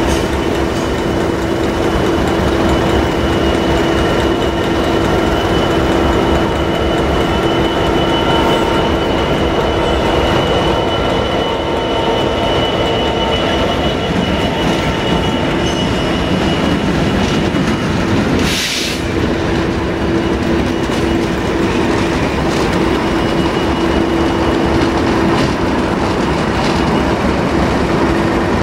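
A train running through the station: a continuous rumble of wheels on rail with a steady drone held throughout. A short, sharp hiss comes about two-thirds of the way through.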